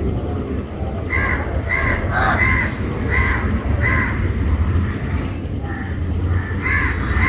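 A bird cawing: a series of short, harsh caws, about half a dozen between one and four seconds in, then a couple more near the end. A steady low rumble runs underneath.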